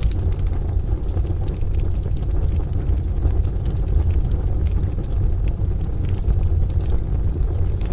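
Wood fire crackling in a stove, with scattered sharp pops, over a steady low rumble from the rain and distant thunder of the ambience mix.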